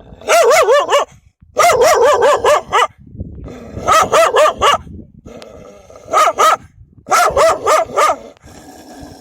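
Dogs barking fiercely in rapid volleys of about three to six barks each, five volleys with short pauses between: the defensive barking of dogs guarding their puppies.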